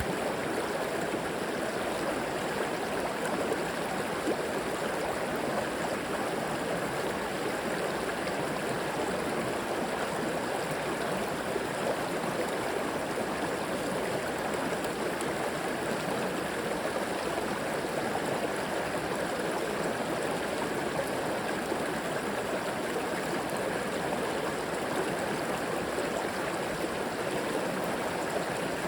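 River water flowing and gurgling over rocks, a steady, even rush with no breaks.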